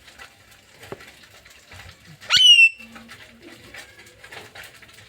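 A parrot gives one loud squawk about halfway through that sweeps sharply up in pitch and then holds briefly. Underneath is the faint, busy chirping of many birds.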